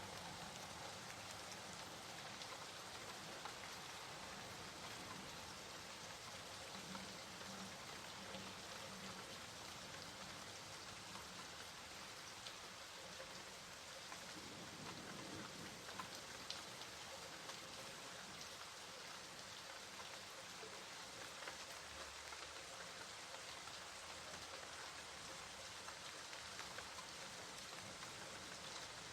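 Steady rain falling, with scattered individual drops ticking now and then against a soft, even hiss.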